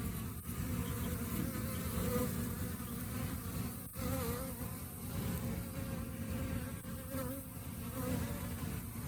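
Honey bees buzzing: a steady hum of many bees whose pitch wavers up and down, with a brief break about four seconds in.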